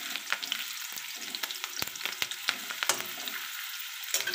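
Capsicum pieces sizzling in hot oil in a kadai: a steady frying hiss with sharp, irregular clicks of the spatula against the pan as the pieces are stirred.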